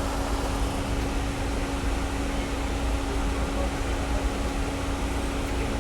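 Steady mechanical hum with a constant low tone over a rumbling noise.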